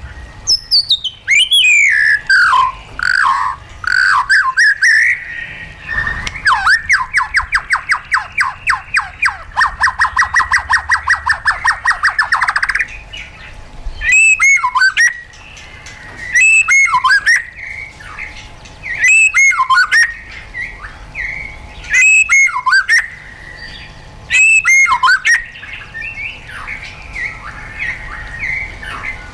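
White-rumped shama singing loudly: varied whistled phrases with falling glides, then a fast run of repeated notes lasting about six seconds, then the same sharp rising-and-falling phrase five times about every two and a half seconds, ending in softer twittering.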